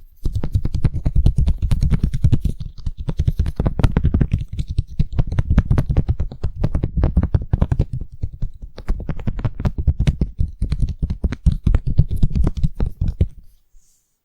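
ASMR brushing: a stiff brush scratched quickly against the microphone, many strokes a second with a deep rumble under them. It stops about a second before the end.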